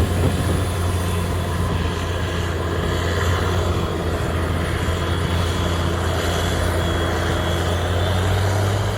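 Heavy diesel farm machinery running steadily: a deep, even engine drone with a broad rush of mechanical noise over it.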